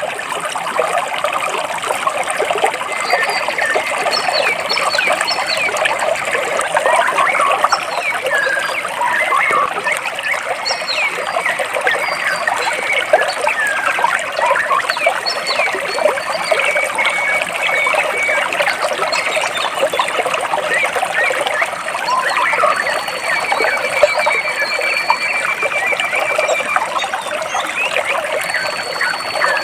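A rocky stream babbling and gurgling steadily as water runs between large rocks, with small birds chirping now and then and a rapid high trill late on.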